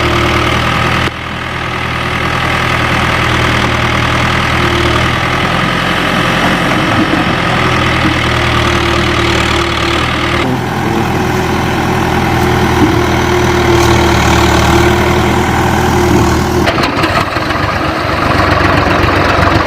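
Heavy diesel engines of a backhoe loader and tractor running steadily at a low, even speed. The sound changes abruptly about a second in, around ten seconds in and again near the end.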